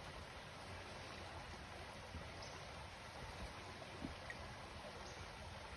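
Faint, steady rush of creek water flowing, with a few small ticks.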